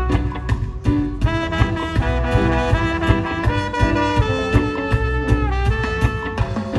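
Live band playing an instrumental passage: horn-like melody notes over a steady beat of drums and bass.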